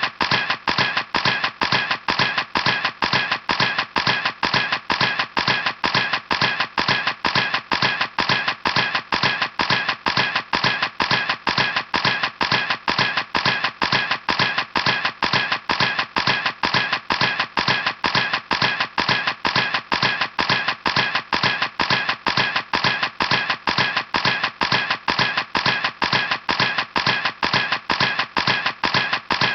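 Camera shutter clicking over and over in a steady, even series, about three clicks a second.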